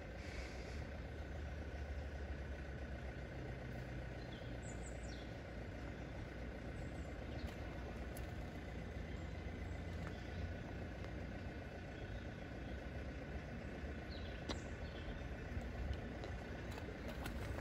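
Steady low rumble of a road vehicle's engine idling, with a few short bird chirps.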